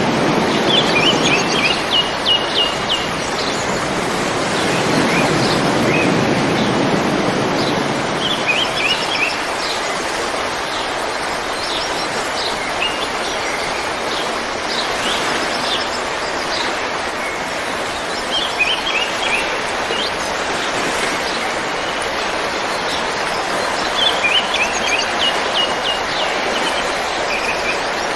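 River water rushing steadily, with a small bird singing short phrases of quick high chirps every few seconds, about five times.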